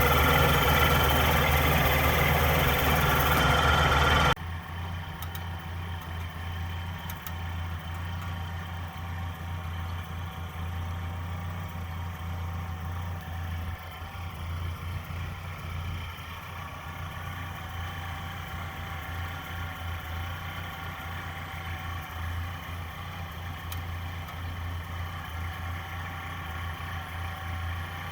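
1956 Ford tractor's four-cylinder gasoline engine idling steadily, running again after its carburetor was cleaned out. It is louder and harsher for about the first four seconds, then drops suddenly to a quieter, even idle.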